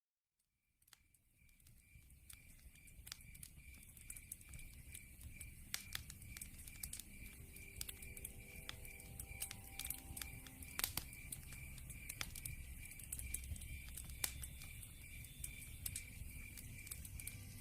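Log fire crackling and popping over a low steady rumble, with an evenly pulsing high chirp of crickets behind it. It fades in from silence over the first couple of seconds.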